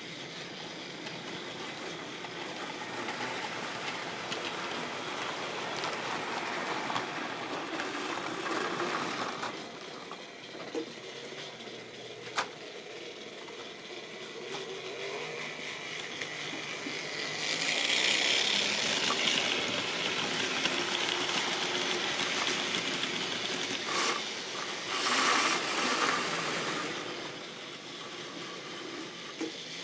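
Tri-ang or Lima model train running on the track, its small electric motor whirring and wheels rattling along the rails, louder for about ten seconds in the second half, with a few sharp clicks.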